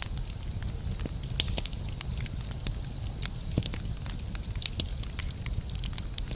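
Wood logs burning in a fireplace, crackling and popping irregularly over a low steady rush of the flames, with one sharper pop a little past halfway.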